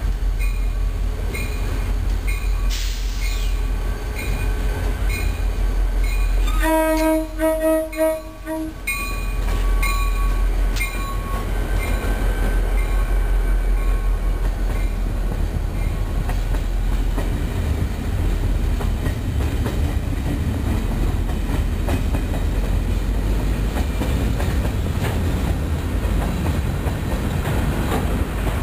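Diesel-hauled train passing close by with a low rumble. About seven seconds in, the locomotive horn sounds for about two seconds, then the cars keep rolling past.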